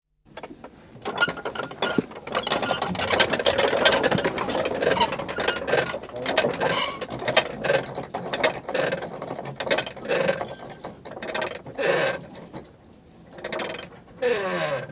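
Metal prayer wheel being turned by hand, rattling and creaking in uneven pulses, with a falling squeak near the end.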